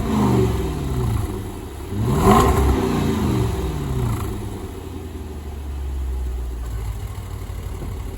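2021 Range Rover Sport SVR's supercharged 5.0-litre V8 being blipped. The revs fall away at the start, a second quick blip rises and falls back about two seconds in, and then the engine settles to a steady idle.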